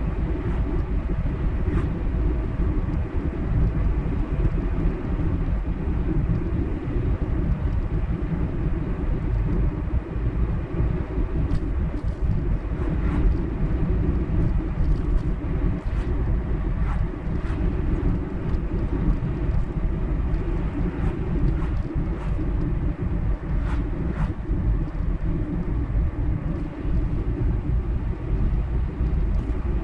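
Steady low road and engine rumble of a car cruising on a highway, with a few faint ticks about midway.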